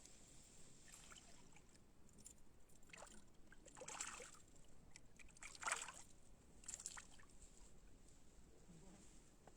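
A few soft water splashes and sloshes against a quiet background, the loudest nearly six seconds in.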